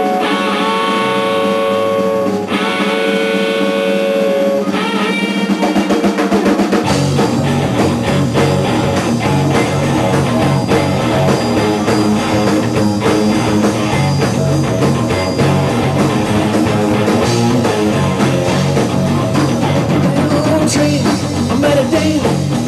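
Instrumental break of a rock song, with no singing: a few long held notes at first, then the drums and full band come in about seven seconds in and play on steadily.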